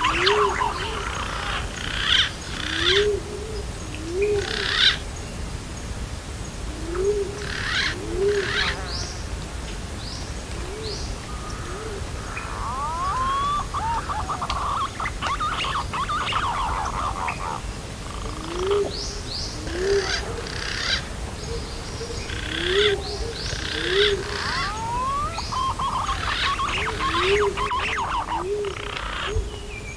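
Green pigeons (punai) calling: bursts of whistled, gliding chirps, with short low rising-and-falling hoots, often in pairs, repeating every couple of seconds underneath.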